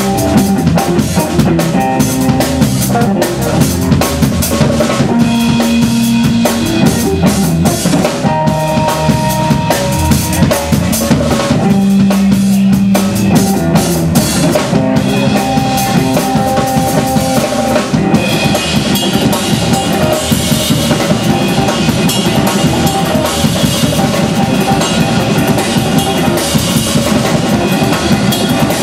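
Live blues band playing an instrumental passage: a drum kit with bass drum and snare keeps a steady beat under held melody notes. The sound gets brighter about two-thirds of the way through.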